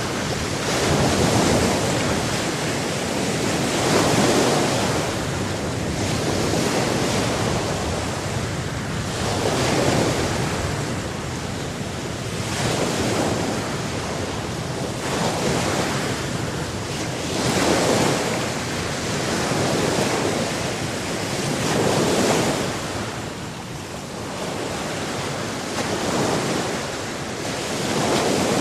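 Ocean waves breaking and washing on a shore, swelling and easing every few seconds, with wind rushing across the microphone.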